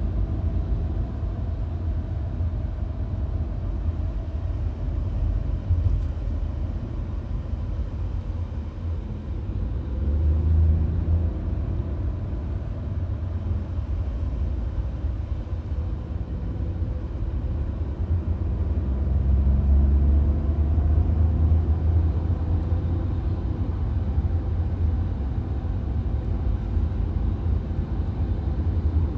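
Cabin road noise of a VW Golf at highway speed: a steady low rumble of tyres and engine that swells louder about ten seconds in and again around twenty seconds.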